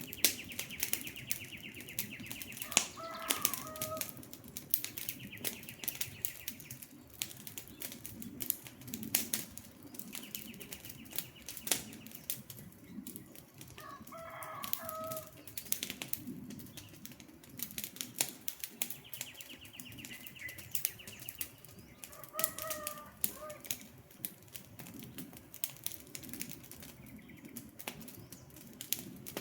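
Wood campfire crackling steadily with frequent sharp pops over a low rushing bed. A bird calls three times, about every nine seconds, each call a short two-toned note, and a high trill sounds shortly before each call.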